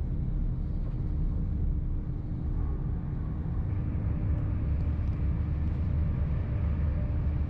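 Inside a Hitachi Class 802 bi-mode train running along the line: a steady low rumble of the moving train with a steady hum.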